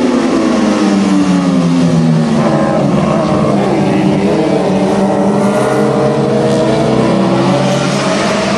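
Several racing sportbikes with inline-four engines running hard, their engine notes overlapping. The pitches fall over the first couple of seconds, then some rise and hold, and they climb again near the end as the bikes shift and accelerate.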